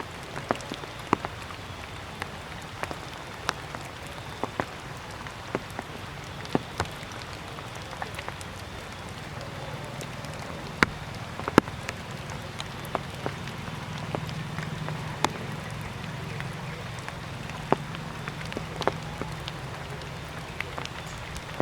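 Water dripping from trees after rain: irregular sharp drips, one or two a second, over a steady background hum.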